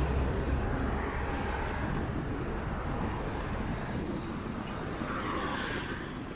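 Steady rushing noise of riding a bicycle on a wet path: wind and tyre noise, with a louder rush fading away in the first second.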